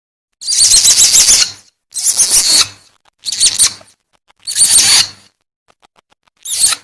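Civet lure call: a series of five loud, shrill calls, each about half a second to a second long, rapidly warbling up and down in pitch, with short pauses between them.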